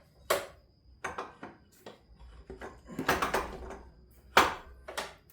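Metal clanking and knocking as an engine's AC compressor is worked loose with hand tools: a string of sharp irregular knocks, a busier cluster about three seconds in and the loudest knock about four and a half seconds in.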